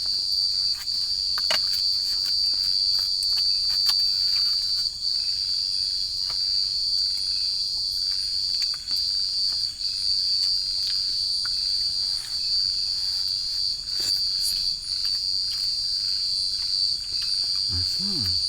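Steady, high-pitched chorus of forest insects such as crickets, with scattered light clicks and taps.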